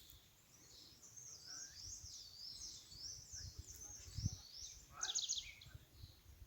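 Songbird singing a quick run of repeated high, down-slurred notes, followed about five seconds in by a short, rapid chattering call. A low thump about four seconds in.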